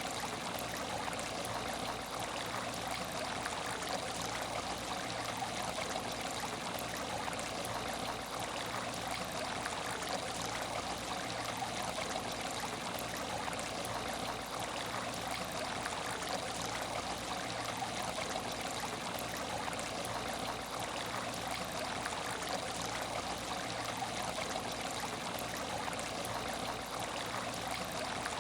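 Aquarium tank water trickling and splashing steadily, an even flow without pause, with a faint low hum underneath.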